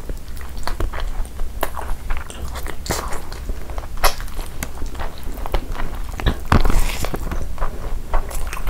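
Close-miked ASMR eating: a person biting and chewing chicken curry and rice eaten by hand, with irregular wet mouth clicks and smacks.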